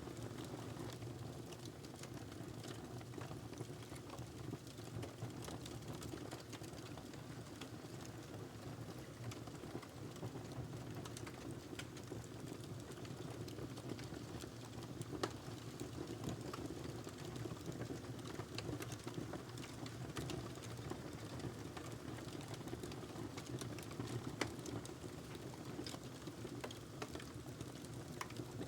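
Wood fire burning in a fireplace, crackling steadily with a low rustle of flames and many small snaps, and two louder pops, one about halfway through and one near the end.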